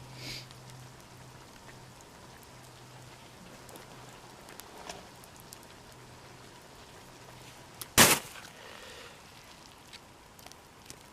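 Stir fry sizzling in a pan over a campfire, with a steady hiss and scattered small crackles. One sharp, loud crack about eight seconds in.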